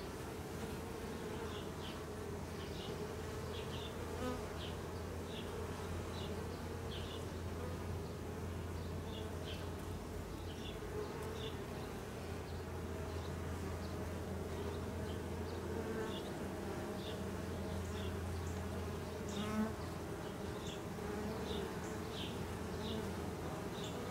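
Honey bees of a swarm colony buzzing steadily around their opened nuc box during a frame inspection, a colony the beekeeper judges to be queenless. Short high chirps are scattered through the hum.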